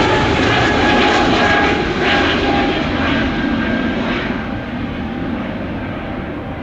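Jet airliner's engines passing close, loud at first and then fading away, with a faint engine whine slightly falling in pitch over the noise.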